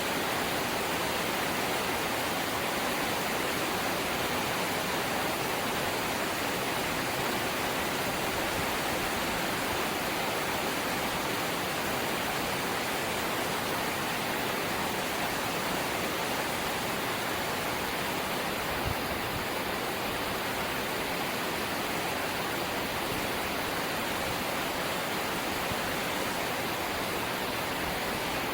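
Steady rain falling on a corrugated zinc house roof: a dense, even hiss. There is one faint low thud about two-thirds of the way through.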